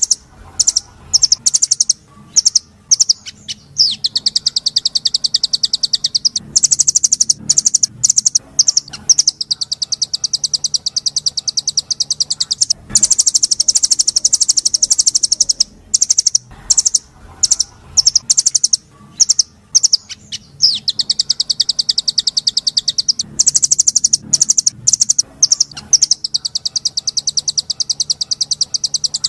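Small songbird singing loudly in high, harsh rolling trills, each a rapid run of many notes lasting a few seconds, broken up by short sharp separate notes: a 'roll tembak' masteran song used to tutor songbirds.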